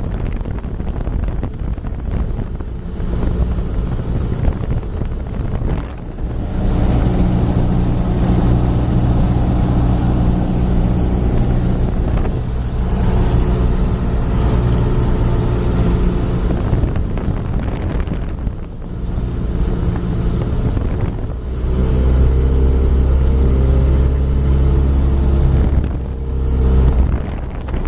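Aircraft engines droning steadily during a landing approach. Several steady tones over a rushing noise shift in pitch and strength a few times as the power is changed.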